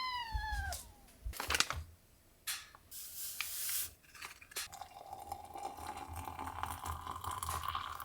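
A dog whining: a high, pitched call that slides down in pitch in the first second. A few light knocks follow, then a faint steady tone.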